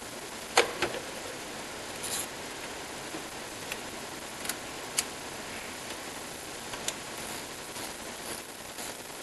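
Hand tools and metal engine parts clicking and tapping against each other during work on the water pump, in single sharp clicks spaced irregularly, the loudest about half a second in, over a steady hiss.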